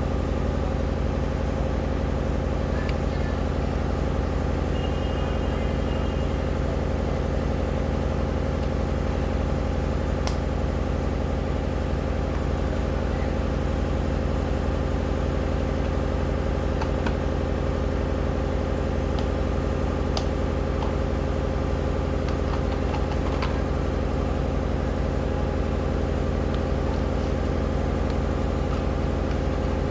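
A steady low mechanical hum, like a motor or engine running at idle, unchanging throughout, with a few faint clicks.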